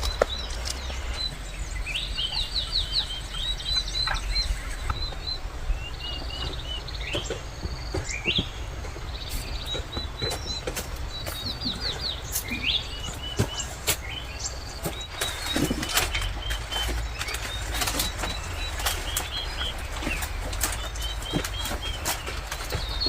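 Birds chirping in repeated short series of high notes, over scattered clicks and rustling.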